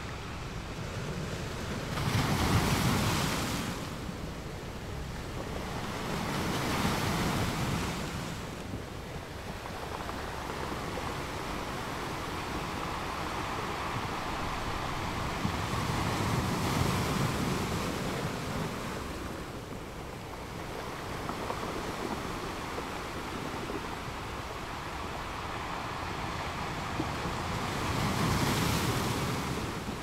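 Ocean waves breaking on rocks: a continuous wash of surf that swells into louder crashes every few seconds, the loudest about two seconds in and near the end.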